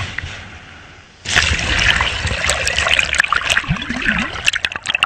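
Water splashing and trickling, full of small crackling clicks, starting suddenly about a second in.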